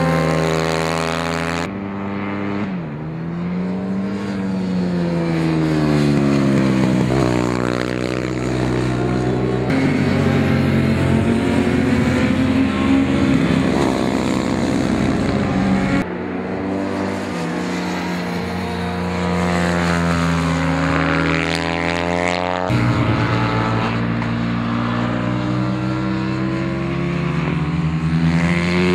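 Moriwaki MD250H racing motorcycle's four-stroke single-cylinder engine at high revs on track, its pitch climbing through the gears and dropping at each shift or braking point. The sound cuts abruptly between shots several times.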